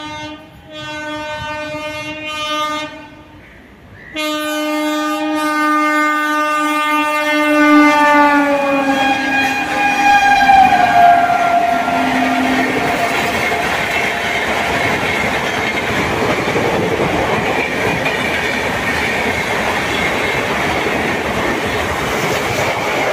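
An Indian Railways train horn sounds twice. The first blast lasts about three seconds, and the second, longer one drops in pitch as the train comes by. The passing train then makes a steady noise of wheels running over the rails until the end.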